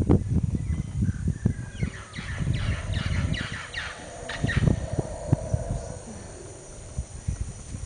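A bird calling in a quick run of repeated notes for about three seconds, from about two seconds in, over a low rumble of wind on the microphone that is strongest at the start.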